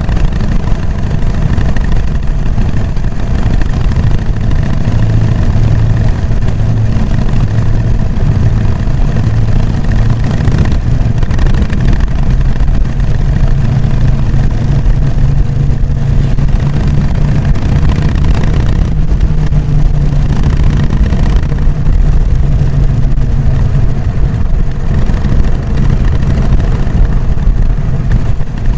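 Harley-Davidson Sportster XL883N Iron's air-cooled 883 cc V-twin running through its stock exhaust, a deep steady engine note. The pitch rises about twelve seconds in, holds, and settles back lower about twenty seconds in.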